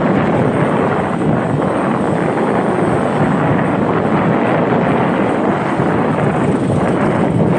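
Steady rush of wind and road noise from a moving motorcycle, with wind buffeting the microphone.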